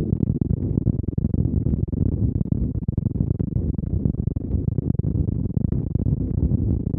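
2021 KTM Duke 125's single-cylinder engine running through a Storm GP aftermarket exhaust while being ridden, a steady, muffled drone with no clear change in revs.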